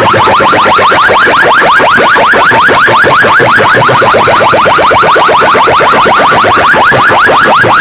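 Loud electronic siren-like effect blasted over a competition sound system: a fast, unbroken train of rising chirps, about six or seven a second.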